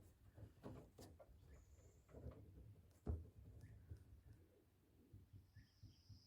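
Near-silent forest ambience: scattered faint clicks and knocks, the loudest about three seconds in, with a short faint high chirp and, near the end, a faint high-pitched drawn-out call.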